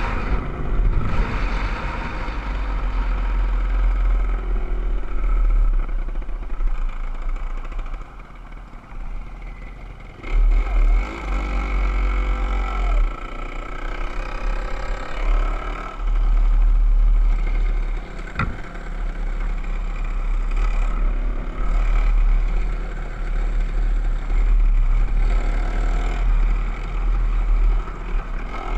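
Motorcycle engine running under way, its pitch rising and falling as the throttle opens and closes. Heavy wind rumble on the microphone throughout, and a sharp click about two-thirds of the way through.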